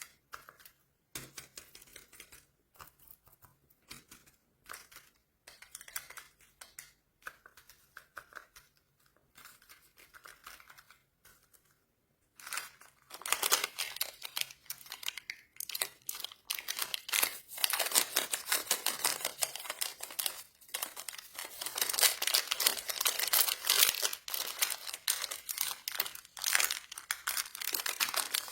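Plastic candy wrappers being crinkled and torn open. Sparse, soft rustles and ticks for about the first twelve seconds, then much louder, continuous crinkling and tearing.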